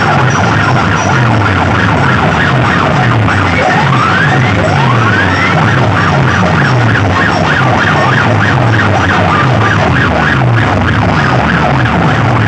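Very loud DJ sound system blasting an electronic siren effect: a warbling siren tone with two rising sweeps about four seconds in, over a repeating falling bass pulse.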